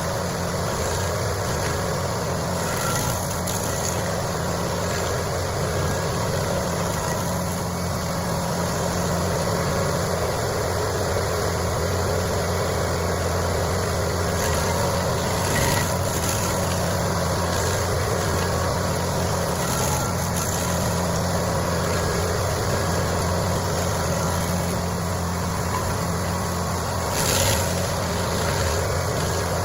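Stump grinder running under load, its engine droning steadily as the cutting wheel grinds into a stump, with two brief louder flares partway through.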